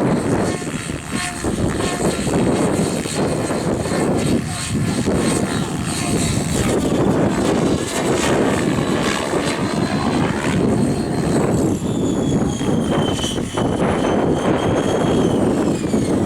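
Electric Align 700E RC helicopter flying 3D manoeuvres, its motor and rotor whine shifting in pitch and gliding downward near the end. Heavy wind buffeting the microphone runs underneath throughout.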